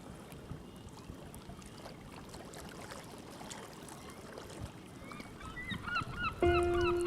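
Gulls calling, a quick run of repeated squawks that starts about five seconds in, over a steady background hiss. Music comes in near the end and is louder.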